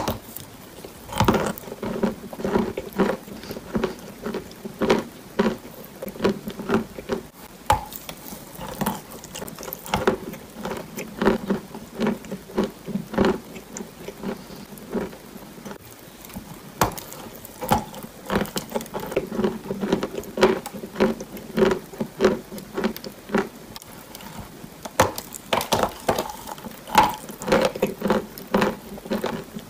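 Close-miked chewing of a dry, crumbly block of food, with irregular crunching and crackling several times a second and repeated bites.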